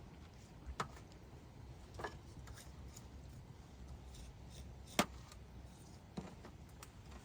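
Four sharp clicks or knocks, the loudest about five seconds in, over a faint steady hiss.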